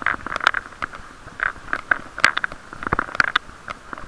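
Muffled, irregular clicking, knocking and rubbing of a chest-mounted action camera inside its sealed waterproof case as the rider pedals, several knocks a second. The case drowns out the outside sound and leaves mostly this handling noise.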